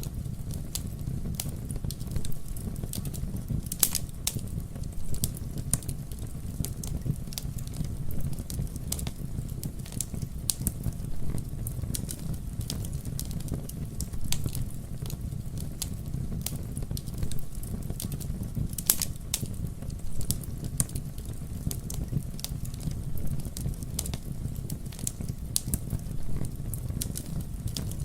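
Wood fire burning with a steady low rumble and frequent sharp crackles and pops scattered irregularly, a few louder snaps standing out.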